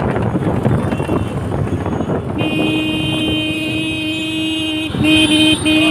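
Vehicle horn sounding a long, steady blast from about two and a half seconds in, then honking again after a brief break, over traffic rumble and wind on the microphone.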